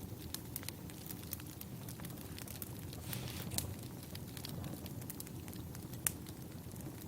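Wood campfire burning: a steady low rush with irregular sharp crackles and pops from the logs, the loudest snap about six seconds in.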